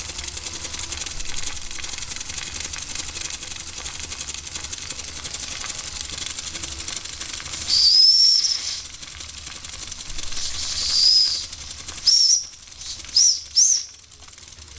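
Weeden 645 toy live-steam traction engine running, a steady rapid hiss of steam, which dies down about twelve seconds in. Several short, high whistling tones sound over it from about the middle on.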